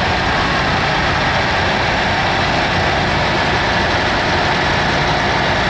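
Vintage farm tractor engines running steadily at low speed, a continuous rumble.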